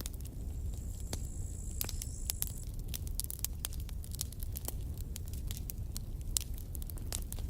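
Wood campfire crackling, with many sharp irregular pops over a steady low rumble of the flames. A thin high whistle runs from about half a second in to nearly three seconds.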